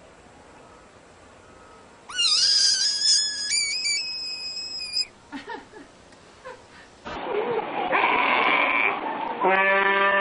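Animal cries: a high, wavering call from about two seconds in, then, after a cut, loud cries from about seven seconds on, ending in a long pitched call.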